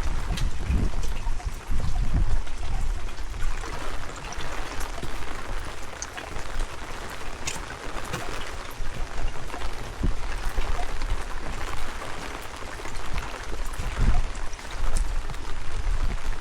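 Steady rain with scattered drops spattering close by, and wind buffeting the microphone in uneven low gusts.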